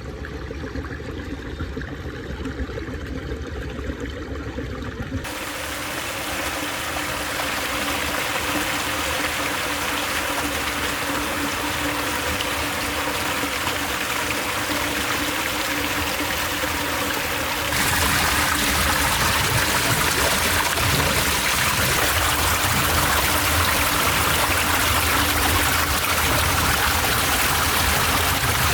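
Water running and splashing through a miniature concrete dam model, a steady rushing that grows louder and brighter in two sudden steps, about five seconds in and again past the middle.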